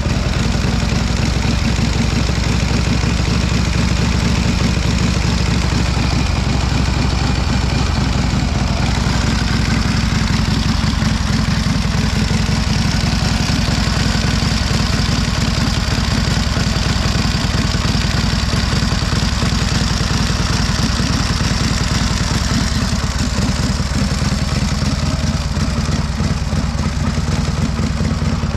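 1928 Indian 101 Scout's V-twin side-valve engine idling steadily, warming up after a cold start.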